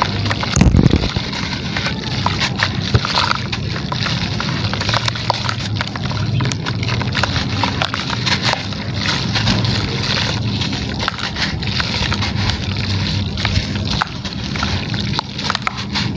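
Gritty material crumbling in water: a steady crackle of small crumbling clicks over a sloshing wash, with one heavy thump about a second in.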